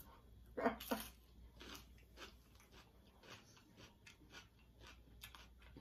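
Close-miked chewing, with a string of small irregular crunches and mouth clicks. A brief voiced "mm" comes just under a second in.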